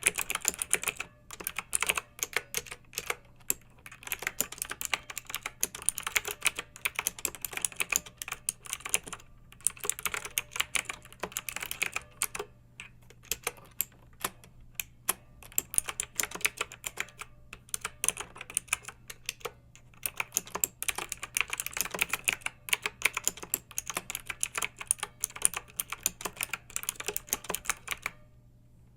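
Clicky mechanical keyboard being typed on: fast, irregular runs of keystrokes broken by short pauses, with one brief gap near the end.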